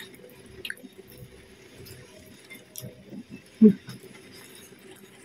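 Close-up eating sounds: wet chewing and soft mouth smacks of rice with a saucy meat topping eaten by hand, with small scattered clicks and one louder short smack about three and a half seconds in.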